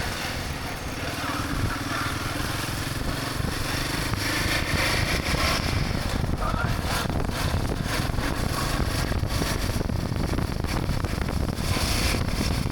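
Motorcycle running steadily on the road, engine and road noise heard from the moving bike.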